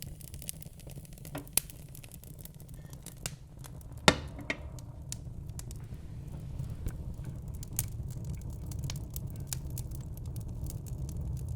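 Wood fire burning in a fireplace: a steady low rumble of flames with scattered crackles and snaps, and one loud pop about four seconds in.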